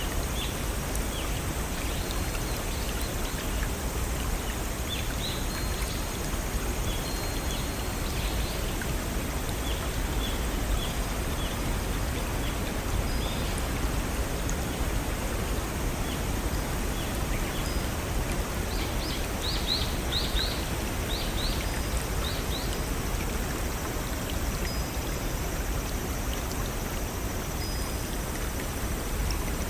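Steady rush of water from small waterfalls on a brook, with birds chirping high above it now and then. There is a brief flurry of quick chirps about two-thirds of the way through.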